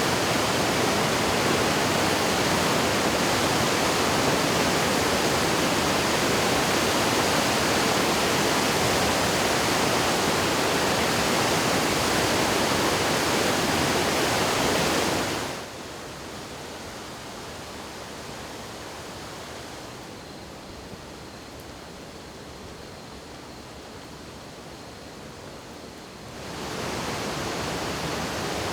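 Rushing of the Yoshida River in flood, swollen by a typhoon: a steady, even noise of fast-moving water. A little over halfway through it suddenly drops much quieter for about ten seconds, then rises again.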